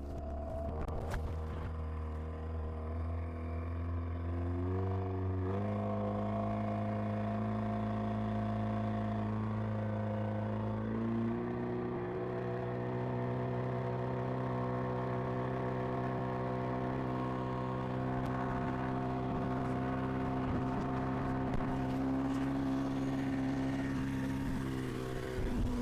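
A motor vehicle's engine running steadily, its pitch stepping up twice, about five seconds in and again around eleven seconds in, as it speeds up.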